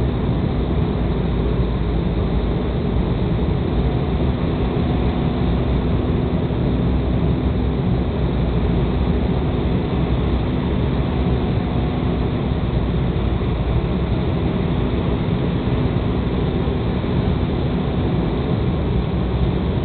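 Steady cabin noise inside an Embraer ERJ-195 airliner: the even rumble of its engines and airflow, with a faint low hum that weakens about two-thirds of the way through.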